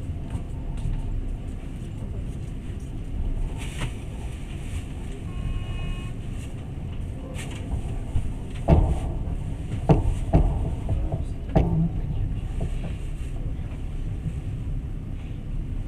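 Passenger train running, heard from inside the carriage: a steady low rumble, with a few sharp knocks about two-thirds of the way through.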